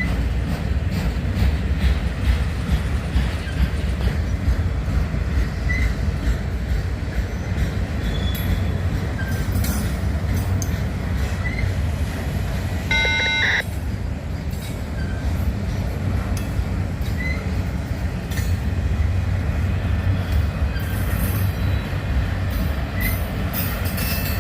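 Freight train rolling past with a steady low rumble of wheels and cars, and a short high tone sounding once about halfway through.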